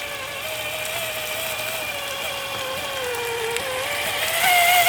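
RC vehicle's motor whining under throttle, its pitch wavering. The pitch dips about three and a half seconds in, then climbs and gets louder near the end as the throttle opens.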